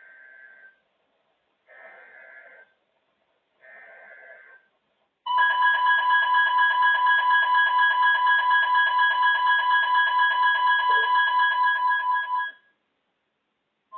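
Emergency alert broadcast: three short bursts of warbling data tones (the alert's header), then a loud steady alert tone that starts about five seconds in, holds for about seven seconds and cuts off sharply.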